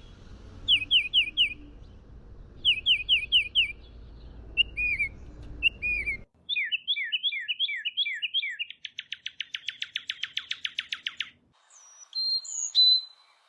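Songbirds singing, from several recordings one after another: first a bird repeating short phrases of four or five quick down-slurred whistles, then, after a sudden change about six seconds in, a run of quick notes that turns into a fast trill, and near the end a different set of high calls.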